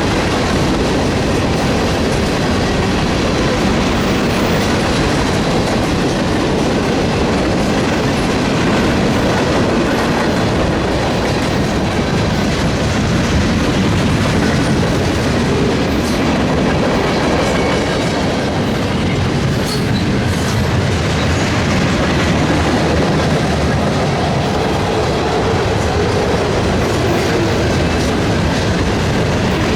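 Train cars rolling past, a steady rumble with wheels clicking over the rail joints.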